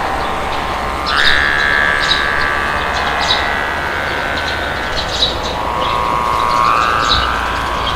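Wind blowing steadily with small birds chirping in short, repeated calls. A long whistling tone sounds through it, sliding up in pitch about a second in and again near the end.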